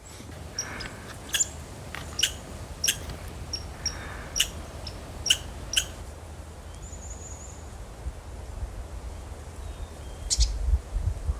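Small birds giving sharp, short call notes, about six in the first six seconds, then a brief high trill and one more note near the end, over a low rumble of wind on the microphone.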